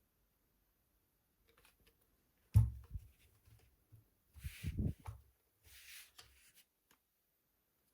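Handling noises: a sharp knock about two and a half seconds in, then short rustling and scraping with soft thuds, against a quiet background.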